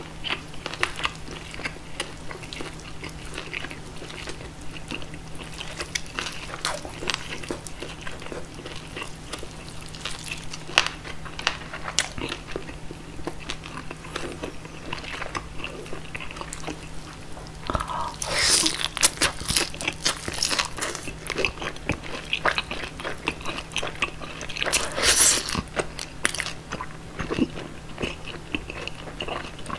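Close-miked chewing and biting of roast pork knuckle (schweinshaxe), wet mouth sounds with many small clicks and crackles. There are two louder crunchy spells, about two-thirds of the way in and again a few seconds later, as the roasted skin is bitten. A steady low hum runs underneath.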